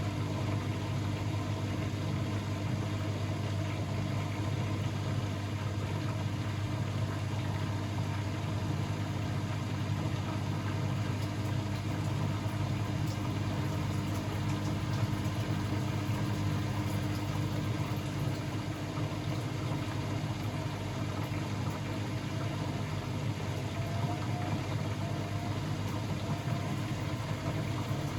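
Blomberg WAF 7442 SL front-loading washing machine running with a steady, even low hum and no pauses or changes.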